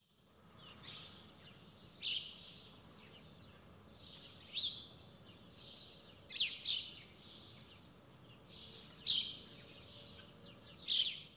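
Songbird singing short, high-pitched phrases every two seconds or so, each with a quick sweeping note, over a faint steady background hiss.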